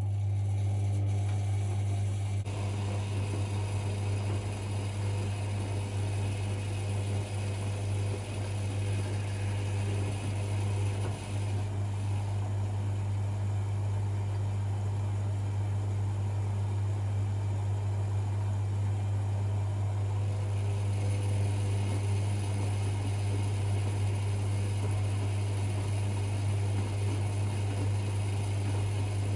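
Privileg 5020 washing machine running with a steady low hum and a noisy wash of sound above it, starting abruptly and holding constant.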